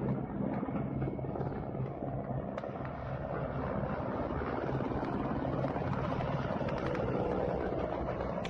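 Helicopter flying, a steady rotor and engine sound.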